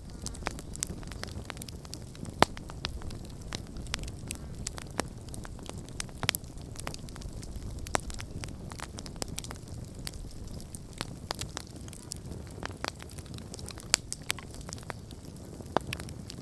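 Wood campfire burning: irregular sharp crackles and pops over a steady low rush of flame, with a few louder pops now and then.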